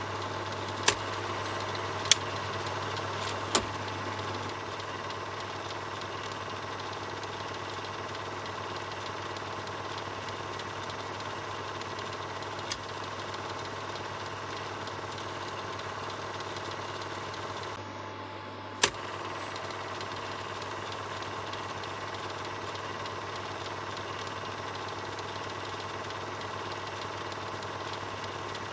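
Film projector running: a steady mechanical whirr with the fast clatter of the film transport. There are a few sharp clicks, three close together near the start and two more later, the last one after a brief dip in the running sound.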